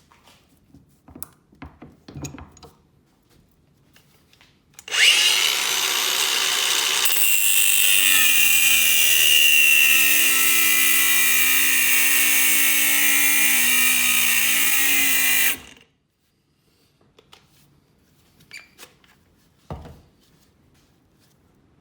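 Handheld power tool running for about ten seconds, starting and cutting off abruptly, with light clicks and knocks of handling before and after.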